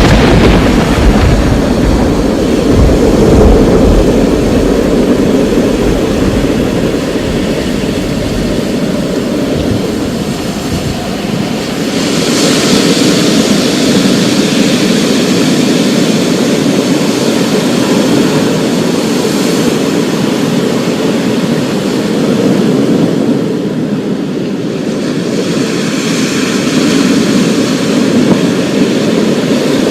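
Thunder rumbling deep and fading over the first several seconds after a crack, over a steady rush of storm rain. The rain's hiss swells about twelve seconds in and again near the end.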